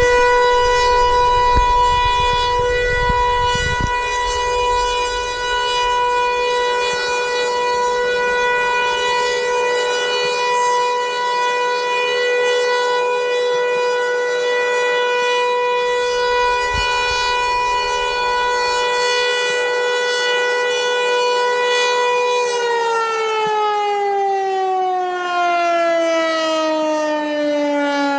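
Federal Signal Eclipse outdoor warning siren sounding a steady tone during its monthly test. About 22 seconds in it begins winding down, its pitch falling smoothly. Wind buffets the microphone at times.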